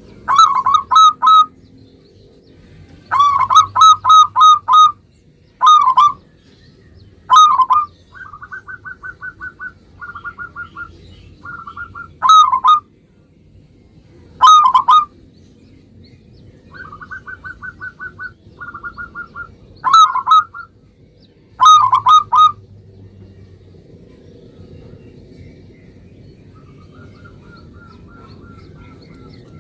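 Zebra dove (perkutut) singing: loud, short cooing phrases of a few quick notes, repeated every second or few seconds. Between them come quieter, faster runs of evenly pulsed notes a little higher in pitch.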